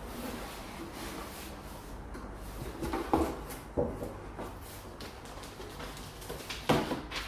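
Handling of a boxed RC car kit's contents: rustling, with a few sharp knocks about three seconds in, just under four seconds in, and near the end.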